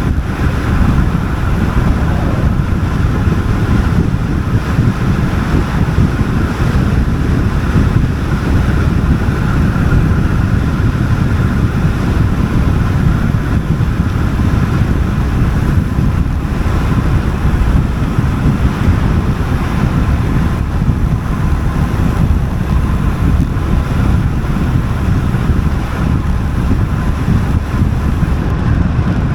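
Rushing wind buffeting the microphone on a road-bike descent, a loud, steady low roar with a faint thin whine above it.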